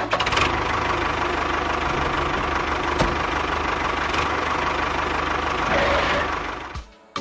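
An engine idling steadily with a regular low chug, fading out near the end.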